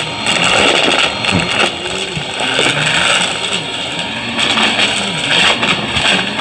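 Vacuum cleaner running with a steady rushing hiss and a low tone that rises and falls over and over.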